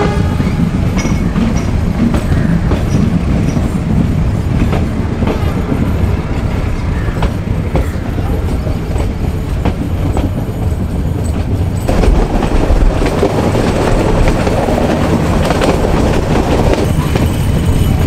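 Metre-gauge passenger train running, heard from the coach window: a steady rumble of the coaches with the wheels clattering over the rail joints. About twelve seconds in the noise grows louder and harsher.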